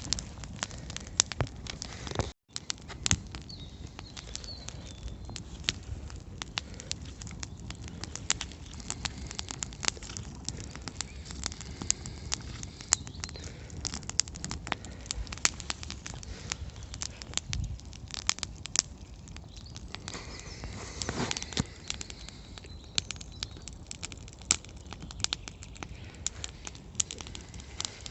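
Wood campfire crackling and popping, with irregular sharp snaps over a low steady hiss.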